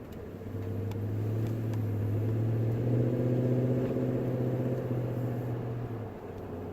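V8 exhaust drone of a 2018 Toyota Tundra with a Dirty Deeds 10-inch stainless exhaust, heard inside the cabin with the windows up. A deep, steady-pitched drone swells up over the first few seconds, is loudest in the middle, and drops away about six seconds in.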